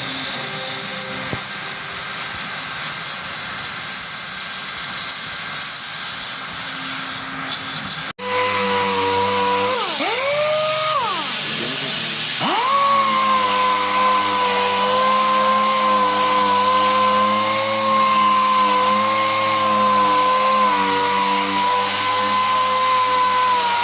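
Steady hiss of a hot-air plastic welder for about eight seconds. After a sudden cut, a small electric power tool whines; its pitch dips and recovers twice before it runs steadily.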